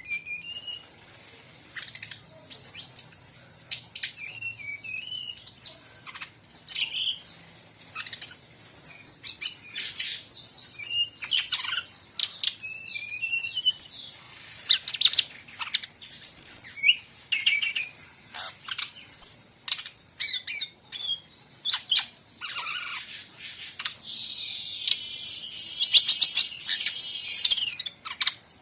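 Brown-chested jungle flycatcher singing busily, a run of varied whistles, quick up-and-down glides and sharp chirps, mixed with other birds' calls over a continuous thin high tone. Near the end a dense scratchy chatter joins in.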